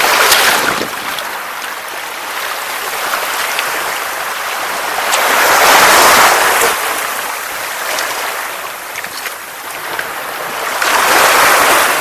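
Sea waves washing onto a beach: a steady hiss of surf that swells three times, about five to six seconds apart, as each wave breaks and runs up the shore.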